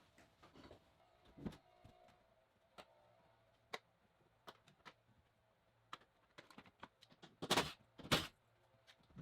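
Scattered clicks and knocks of hands and tools working on a car seat as it is unbolted and pulled out of the car. Near the end come two louder thunks about half a second apart.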